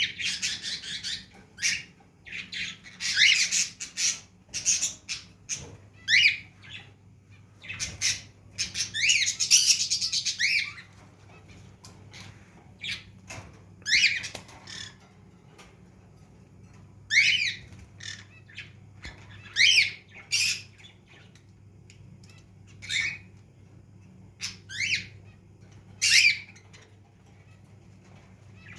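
Pet bird squawking: short, sharp calls that sweep down in pitch, in quick clusters at first and then one every second or two.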